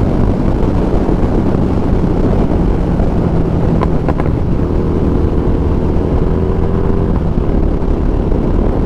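Harley-Davidson Street Rod 750 V-twin engine running steadily while riding, with a continuous low drone.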